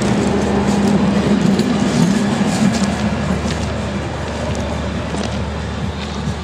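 Passenger train coaches rolling past close by, the wheels rumbling and clacking over the rail joints. The sound slowly fades after about two seconds as the last coach pulls away.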